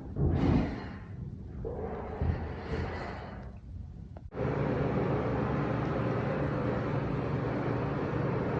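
Building construction noise heard inside an apartment: low rumbling swells that rise and fade, then after an abrupt cut a steady machine drone with a low hum.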